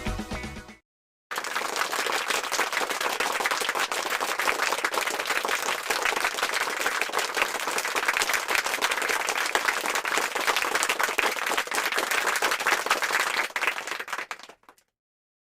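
Crowd applauding, many hands clapping densely and evenly. It starts about a second in and fades away near the end.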